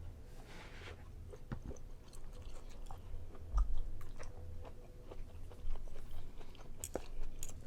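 A person chewing a mouthful of tender prime rib close to the microphone, with small wet mouth clicks and smacks scattered through.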